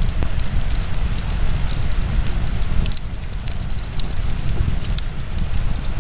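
Wood fire burning in a fireplace, crackling with many small sharp pops at irregular intervals over a steady low rumble.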